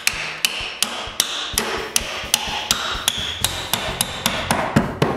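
A hammer driving a spline into the slot between two wooden wall planks, striking steadily about three times a second and stopping just before the end.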